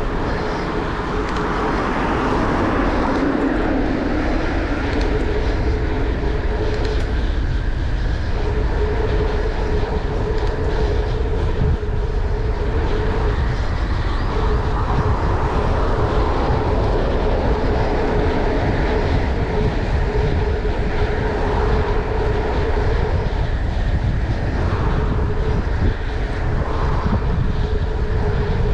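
A vehicle running steadily: a constant low rumble and hiss with a steady mid-pitched hum that drops out briefly a few times.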